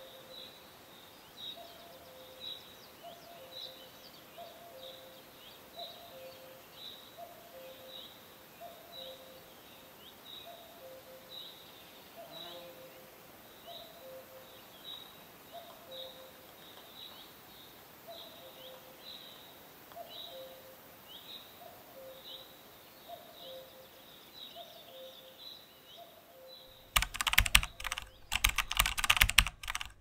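A bird calling over and over, a short high falling chirp about every two-thirds of a second with a lower note beneath it, over a faint steady hiss. About 27 seconds in, loud crackling digital glitch noise cuts in and takes over for the last few seconds.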